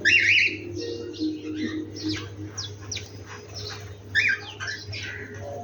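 Dawn chorus of several songbirds chirping and calling, many short sweeping notes overlapping, with a loud warbled phrase at the start and again about four seconds in.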